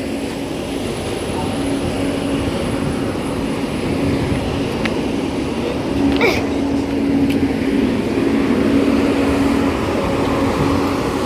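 Renfe electric passenger train at the station platform: a steady low hum over a broad, even rumble, with one short sharp sound about six seconds in.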